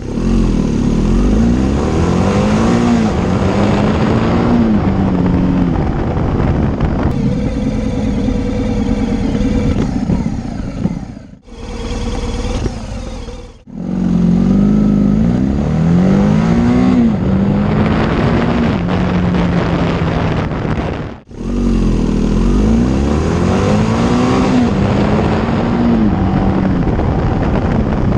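BMW R1200 GS boxer-twin engine under hard acceleration through the gears: the pitch climbs, drops at each upshift, then climbs again. This repeats over several runs, with abrupt breaks about 11, 13 and 21 seconds in.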